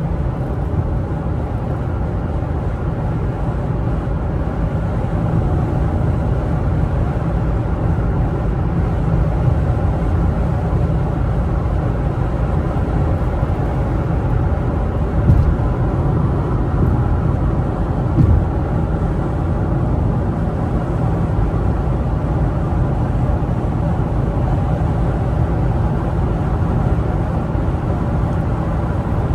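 Infiniti G37's 3.7-litre V6 and tyres heard from inside the cabin while driving: a steady low road rumble with the engine running under it, and two short louder bumps about halfway through.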